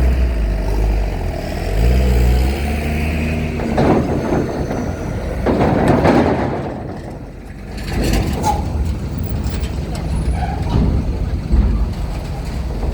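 Heavy diesel trucks moving in traffic: a steady low engine rumble, one engine revving up with a rising note a couple of seconds in, and loud air-brake hisses around four and six seconds in.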